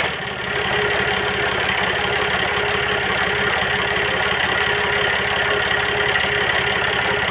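Generator set engine, just repaired, running at a steady idle with an even low beat, shortly after being started.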